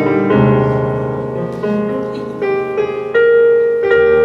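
Keyboard playing slow, sustained chords, moving to a new chord about every second.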